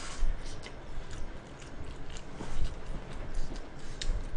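Close-miked chewing of food, with soft scattered mouth clicks.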